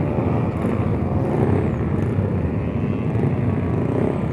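Motorcycle engine running steadily under way, with road and wind noise, on a freshly rebuilt engine.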